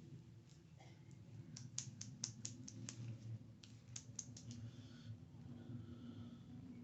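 Typing on a computer keyboard: a quick run of sharp key clicks starting about a second and a half in, then a second short burst around four seconds.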